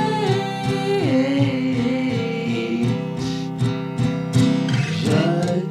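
Song with strummed guitar. A sung note carries over, drops in pitch about a second in and fades, the guitar plays on alone, and the voice comes back in near the end.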